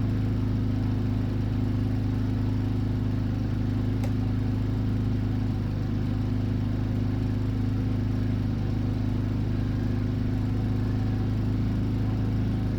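Arc welder running in the shop: a steady low electric hum with its overtones and a faint hiss over it, holding level throughout.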